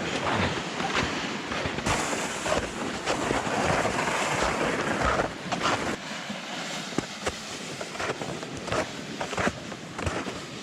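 Footsteps crunching and sleds dragging over wet, slushy snow, with irregular crunches over a steady scraping noise that is loudest in the middle stretch.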